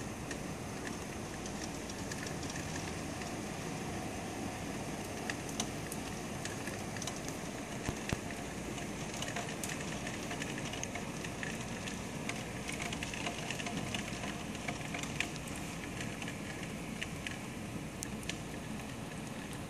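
Heavy rain falling on rooftops and pavement: a steady hiss with scattered sharp ticks of individual drops.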